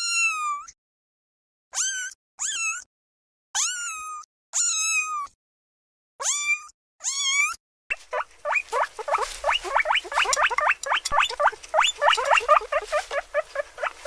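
Kitten mewing: seven short, high-pitched mews with gaps between them. From about eight seconds in, a rapid run of short high squeaks follows, several a second.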